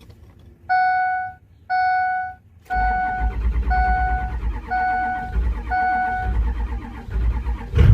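A dash warning chime beeps about once a second, and from about three seconds in the starter cranks the 6.0 Power Stroke V8 diesel under the beeps. It is a cold start with the glow plug module dead, so it has to crank on unheated cylinders, and the engine begins to catch at the very end.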